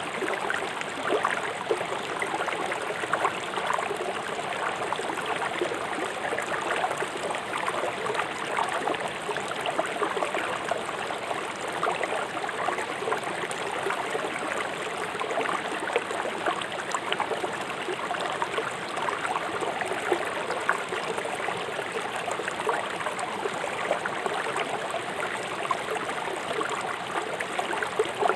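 River water flowing swiftly over rocks: a steady, fast rush with many small splashes and gurgles.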